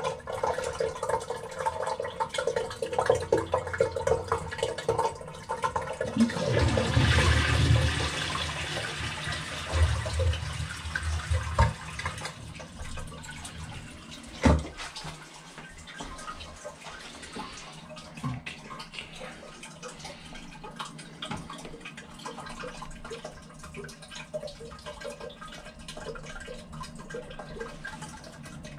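Water running in bathroom plumbing, swelling into a loud rush about six seconds in that lasts a few seconds, with a single sharp knock about halfway through; after that only a quieter flow.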